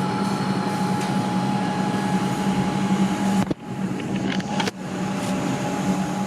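Comeng electric suburban train moving off, a steady electrical hum and rumble, with two sharp clicks about a second apart midway.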